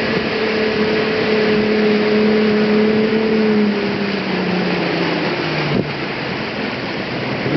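Motorboat's outboard engine running steadily over a rush of wind and water, then easing off, its pitch dropping from about halfway through. There is a brief knock near the end.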